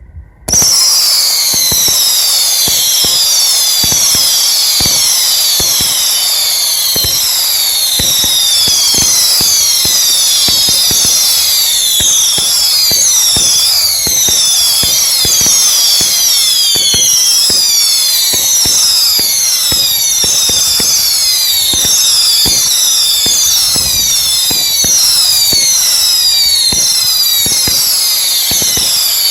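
A consumer fireworks cake firing screaming, spinning whistle shots in rapid succession. Many overlapping whistles each fall in pitch, with a sharp launch pop under each, several a second. It starts suddenly about half a second in.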